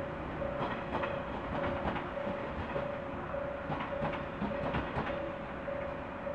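JR West 115-series electric train running away over rail joints and points, with scattered wheel clicks over a low rumble. Through it a level-crossing warning bell rings at a steady beat, just under two dings a second.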